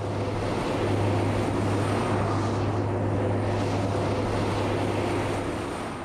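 Road train's diesel engine and many tyres running on the road, a steady heavy rumble with a low hum. It builds over the first second, holds, and eases near the end.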